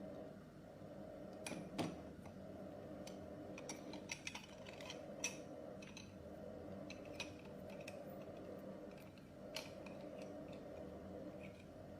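Scattered sharp clicks and light taps, a few seconds apart with a small cluster near the middle, over a steady low hum; no bird calls or song.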